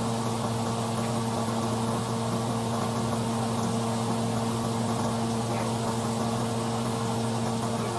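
Steady motor hum with an even hiss beneath it.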